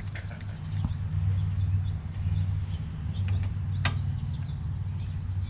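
A steady low motor drone runs throughout, with small birds chirping over it and one sharp metallic click about four seconds in.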